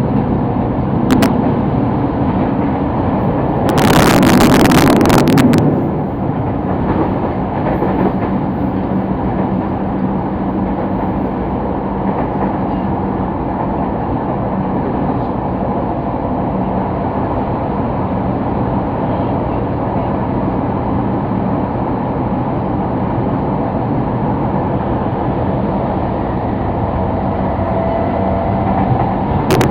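Sotetsu Line commuter train running, heard from inside the carriage: a steady rumble of wheels and motors with a low hum, broken about four seconds in by a loud rushing burst lasting under two seconds.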